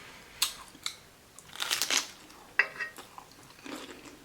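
Close-up chewing and crunching of a salad taco, with irregular wet bites and crunches, the loudest about two seconds in.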